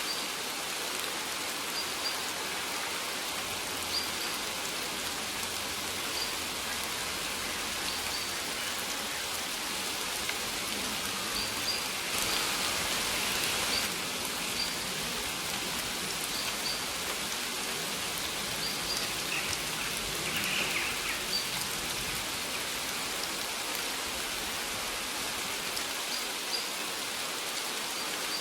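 Steady rain falling, an even hiss, growing slightly heavier for a couple of seconds near the middle. Faint short high-pitched notes recur every couple of seconds over it.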